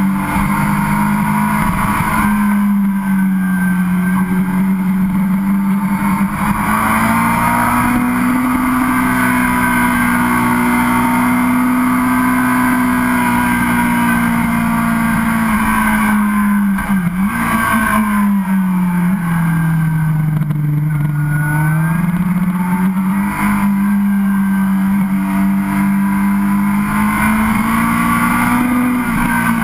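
Sportbike engine running under way, heard from onboard with wind rushing over the microphone. The engine note holds mostly steady, sinks and recovers twice past the middle as the rider eases off and picks up speed again, then rises slowly.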